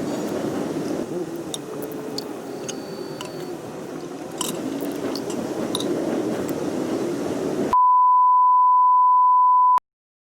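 Several seconds of low rumbling noise with scattered clicks, then a loud steady single-pitched electronic beep lasting about two seconds that cuts off suddenly.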